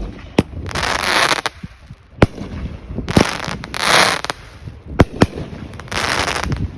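Sunwing 'Redneck Mother' 9-shot 500 gram firework cake firing. Each tube gives a sharp launch thump, followed by a long crackling burst, about four shots in succession.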